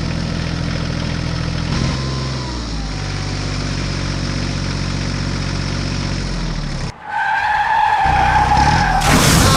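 A vehicle engine running steadily, its pitch shifting about two seconds in, then cutting off about seven seconds in. A high, steady squeal follows for a couple of seconds, then a loud noisy burst near the end.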